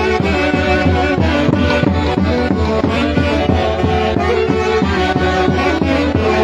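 Live orchestra playing Santiago festival music from Huancayo: several melody instruments over a steady beat.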